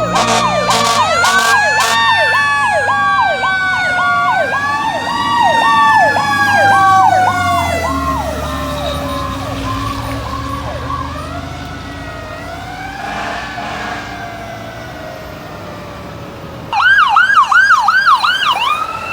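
Several emergency-vehicle sirens from fire apparatus and ambulances sounding at once. One runs in a fast yelp about twice a second while others rise and fall in slower wails, over a low engine rumble. Near the end a louder, faster yelp starts abruptly.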